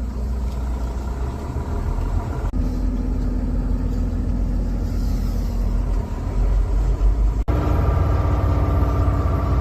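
A road vehicle driving: a steady low engine and road rumble with a faint hum. A sudden break comes about seven and a half seconds in, after which the rumble is a little louder.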